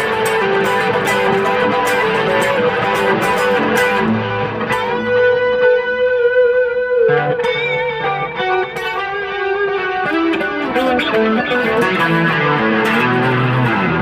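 Mexican-made Fender Stratocaster electric guitar on its middle pickup, played clean through an effects processor: picked single notes and chords, with one chord left ringing about five seconds in.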